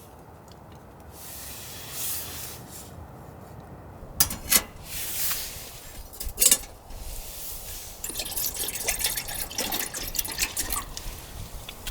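Liquid pouring and dripping, with a few sharp knocks and then a run of small crackling clicks from about eight seconds in.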